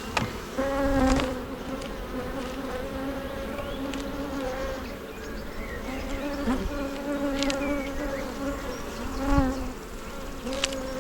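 Honey bees buzzing in a steady swarm around an open hive, a constant hum with several overtones. A few short, light knocks break in now and then.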